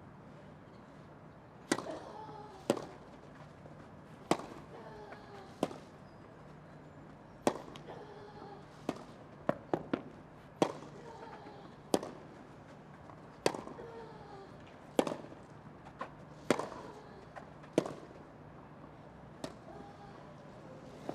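Tennis rally on a grass court: tennis balls struck by rackets in a steady exchange, about one shot every one to one and a half seconds, several of them followed by a player's short grunt.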